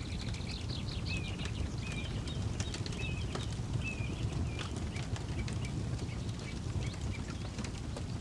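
Campfire crackling with scattered sharp pops over a low, steady rumble. A bird chirps short notes about once a second through the first half.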